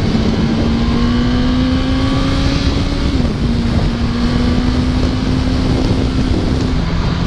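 Yamaha R1 sport bike's inline-four engine running at steady road speed, its note slowly rising and then dropping sharply about three seconds in and again near the end, under heavy wind noise on the microphone.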